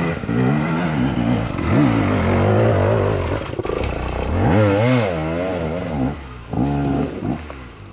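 KTM enduro motorcycle engine revving hard in repeated surges, its pitch rising and falling as the throttle is worked on a steep off-road climb, with some clattering.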